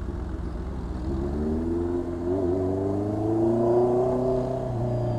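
2020 Honda CB650R inline-four engine through an SC Project exhaust, revs climbing under acceleration from about a second in, with a brief dip midway, then levelling off near the end.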